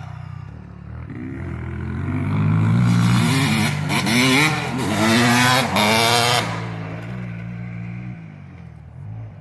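Motocross dirt bike engine revving hard, its pitch climbing and dropping several times as it accelerates through the gears, loudest from about two to six seconds in and then fading away, over a steadier lower engine note.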